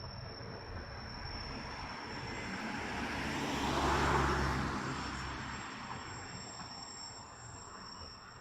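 Bernina line train passing close by, its rumble and wheel noise swelling to a peak about four seconds in and then fading away.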